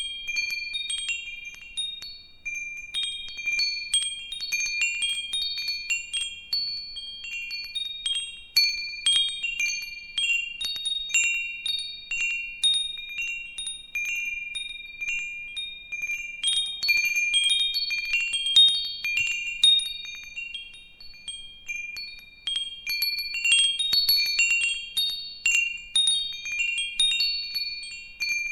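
Wind chimes tinkling: many high, bright notes struck at random and ringing over one another, one note near the bottom of the set recurring often.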